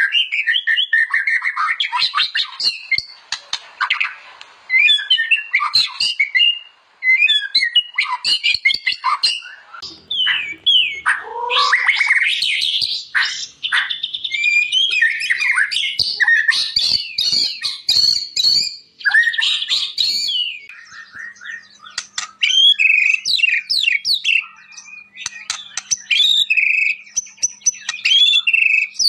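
White-rumped shama (murai batu) in full song: a rapid, varied, near-unbroken run of loud whistles, sweeping glides, fast trills and harsher chattering notes. A faint steady low hum sits beneath the song near the end.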